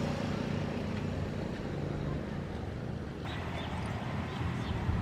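Diesel locomotive engine running steadily with a low hum. About three seconds in the background changes abruptly, and a few short high chirps follow.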